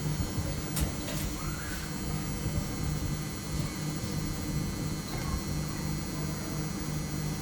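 Samsung ecobubble washing machine running, a steady low motor hum that pulses at a regular beat. There are a couple of light clicks about a second in.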